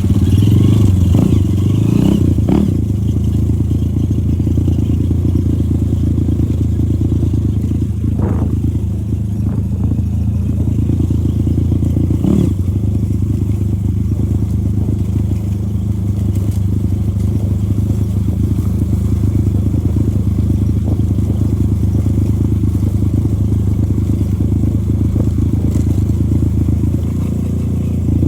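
Honda motorcycle engine running at a steady speed as the bike is ridden, with a few short knocks and rattles along the way.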